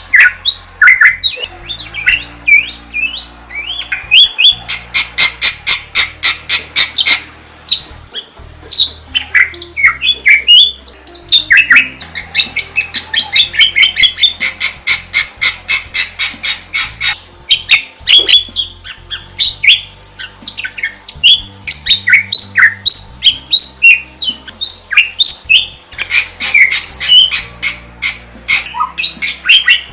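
Bali myna (Bali starling) singing continuously: loud harsh squawks and whistled rising and falling notes, broken by long fast rattling runs of repeated notes.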